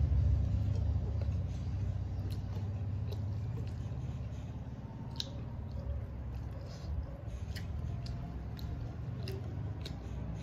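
A person eating rice and curry by hand: chewing with sharp wet mouth clicks now and then, and fingers squishing rice and curry on a steel plate, over a steady low rumble.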